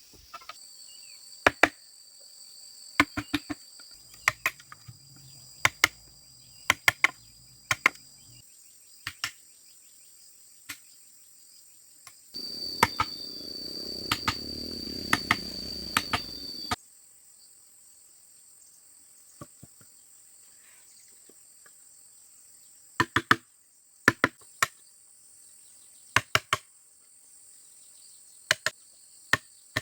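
Hand-tool strikes on bamboo: sharp, irregular knocks, often in pairs, spaced a second or two apart. Crickets trill steadily throughout, and a steady rushing noise runs for about four seconds midway.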